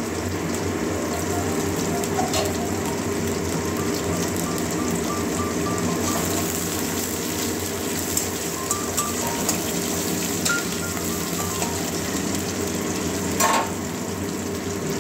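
Onions and green chillies sizzling steadily in hot oil in an aluminium kadai, stirred now and then with a spatula, with a sharp knock near the end. Soft background music with a simple melody plays underneath.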